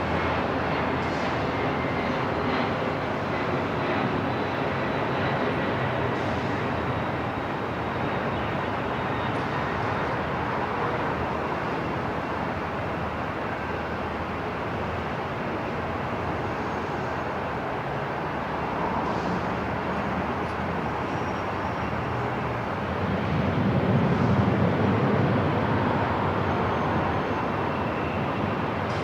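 Airport ambience: a steady, dense wash of noise with faint high tones here and there, and a low rumble that swells briefly about three-quarters of the way through.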